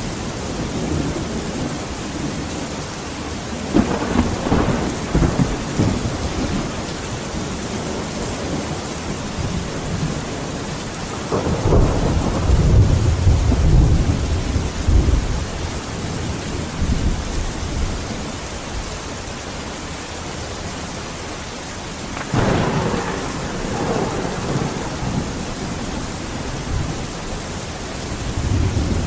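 Steady rain falling with thunder rumbling four times over it. The longest and deepest roll of thunder comes about halfway through.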